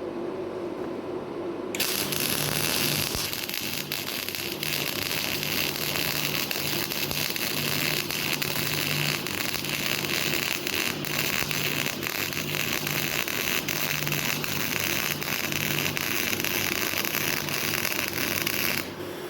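Semi-automatic MIG welding arc running one continuous bead, a steady dense crackle and sputter of spatter that starts about two seconds in and cuts off sharply just before the end as the torch trigger is released.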